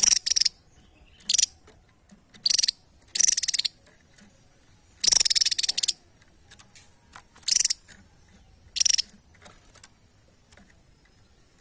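A small songbird giving short, loud bursts of high, rapid trilling song, a second or two apart, with one longer phrase near the middle.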